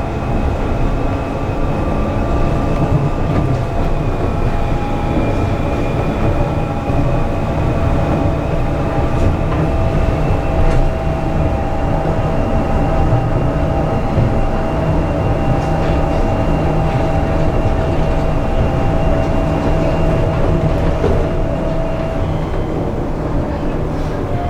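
Seibu 8500 series Leo Liner rubber-tyred people-mover running at a steady speed. Its Hitachi IGBT-VVVF inverter and traction motors give a steady whine over a dense low running rumble, and the whine shifts up in pitch near the end.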